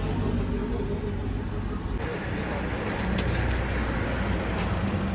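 Steady low rumble of a road vehicle on the move, its sound shifting abruptly about two seconds in.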